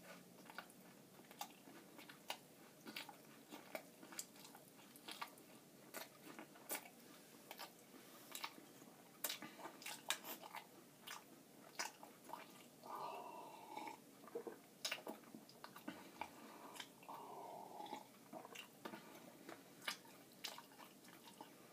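Close-up chewing of crunchy Nature Valley granola bars: faint, irregular crunches and clicks of the oat bar being bitten and ground between the teeth, with two longer, softer stretches about 13 and 17 seconds in.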